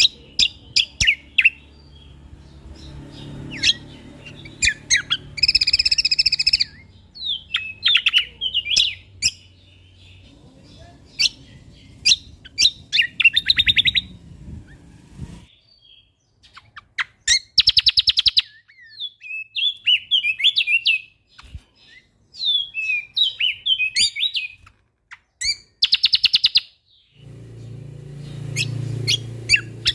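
Cucak kombo (kecial kombok) songbird singing a varied, fast song of sharp chirps, whistled trills and slurred notes, broken by several harsh buzzing rattles of about a second each. A faint low hum sits under the song for the first half and returns near the end.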